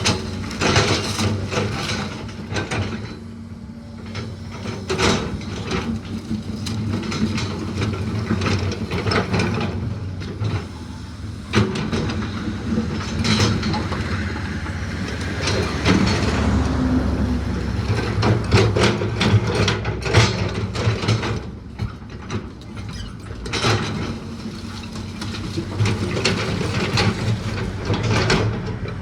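An engine running steadily under many sharp cracks and knocks of wood splintering and being crushed, as the old house's timber framing is torn apart.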